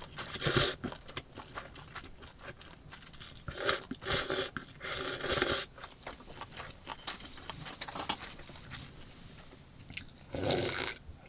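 A person eating cold noodles (naengmyeon): chewing, with a few short, loud, noisy bursts of mouth sounds near the start, around four to five seconds in, and near the end.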